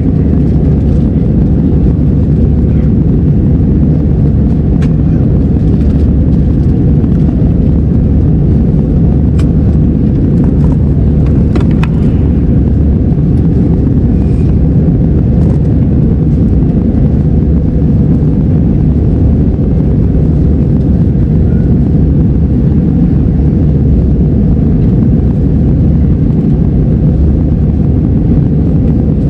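Steady, loud low rumble of jet engines and rushing air inside an airliner's cabin during the climb after takeoff.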